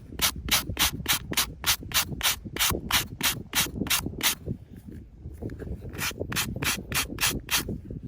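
Rapid, even rasping strokes of something being rubbed or scraped by hand, about three to four a second, stopping for about a second midway and then resuming. A low rumble lies beneath.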